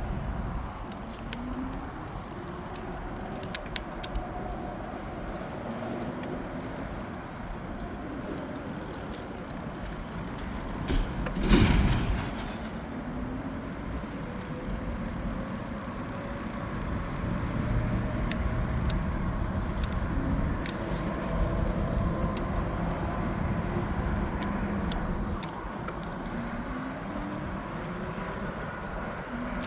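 Riding noise on an e-bike: steady wind rush and tyre rumble, with faint whines gliding up and down in pitch, scattered light rattles, and a louder whoosh about eleven seconds in.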